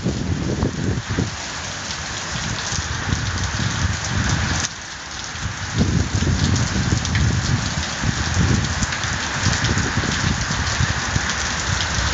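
Rain falling steadily in a thunderstorm, with a low rumbling that swells and fades in uneven gusts and drops away briefly a little before the middle.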